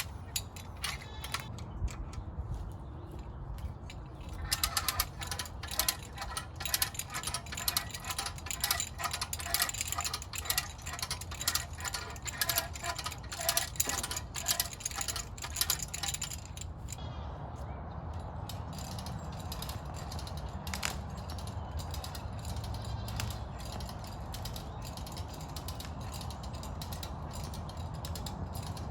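Hand ratchet on a tie-down strap clicking rapidly as it is cranked, tensioning the strap to pull a broken fence post back upright. The clicking stops about two-thirds of the way in.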